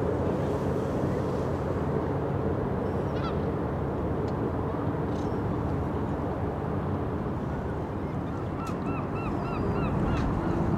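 Steady low hum of harbour machinery, with a bird calling in a quick run of about seven short honking notes near the end.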